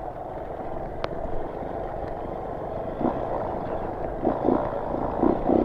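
A Honda CRF dual-sport motorcycle's single-cylinder four-stroke engine running under way off-road, swelling with bursts of throttle a few times in the second half. There is a sharp click about a second in.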